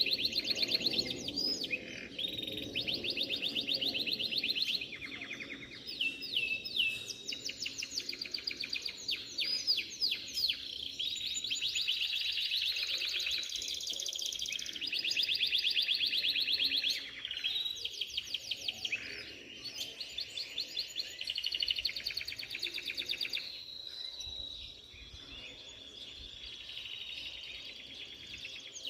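Domestic canaries singing: long fast trills and rolled runs of rapidly repeated high notes, phrase after phrase with only short breaks, a little softer near the end.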